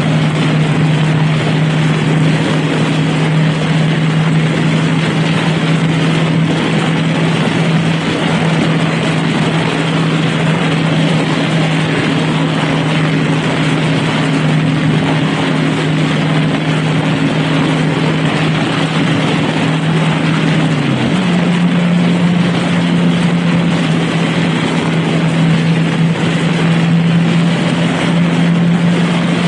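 Honda Rebel motorcycle engine running at a steady cruising speed with heavy wind and road noise; about two-thirds of the way through, the engine note steps up slightly in pitch.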